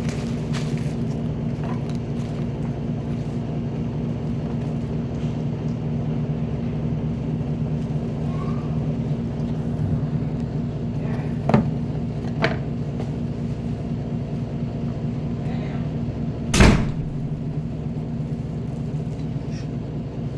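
A steady low mechanical hum, with two light clicks a little after halfway and one loud knock about three quarters of the way through.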